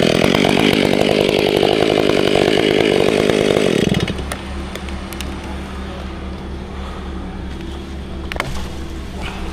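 Chainsaw held at full throttle making a cut for about four seconds, then let off, leaving a lower steady hum.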